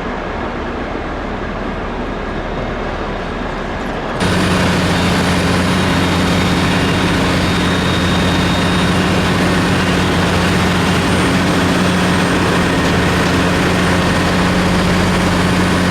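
Steady vehicle noise. About four seconds in it jumps suddenly to a louder, steady engine-and-road noise with a low hum.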